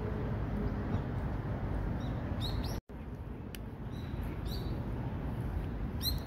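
Small bird chirping, three short high calls about two seconds apart in the second half, over steady low outdoor background noise. The sound cuts out for an instant just before the middle.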